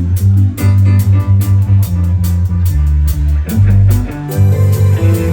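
Live band playing an instrumental passage: electric bass, guitar, keys and drum kit, with a steady beat and a prominent bass line.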